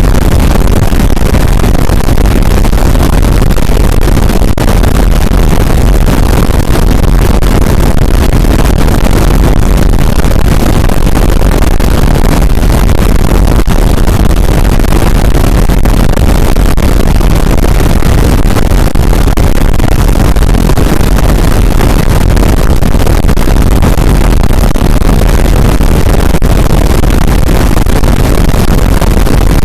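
Harsh noise music: a very loud, unbroken wall of distorted noise that fills every pitch range, heaviest in a deep rumbling bass, with a fine crackling flicker and no tune or beat.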